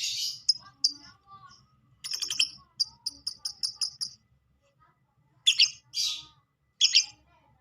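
Lovebird giving short, shrill chirps and squawks in separate bursts, with a quick run of about eight chirps two to four seconds in.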